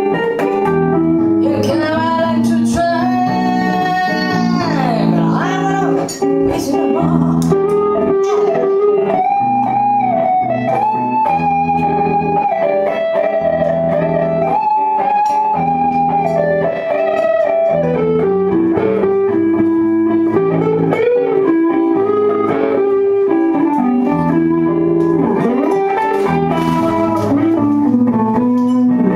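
A band playing live, with a guitar leading the melody in a bluesy solo full of bent and sliding notes over steady bass and chords.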